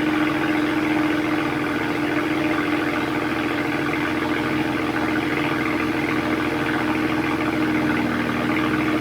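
BMW N54 twin-turbo inline-six idling steadily through the stock exhaust after a cold start.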